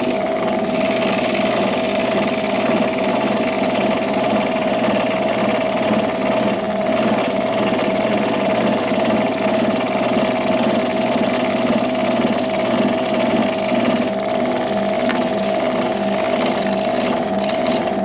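Electric woodworking saw running steadily with a constant whine while cutting pine, then shutting off right at the end.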